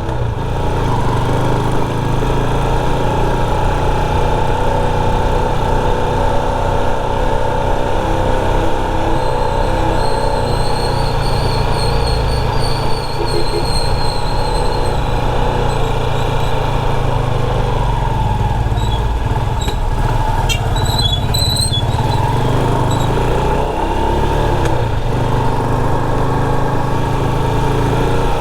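Motorcycle engine running steadily as it is ridden, with road and wind noise. A thin, high squeal lasts a few seconds near the middle, and a few short high squeaks come a little later.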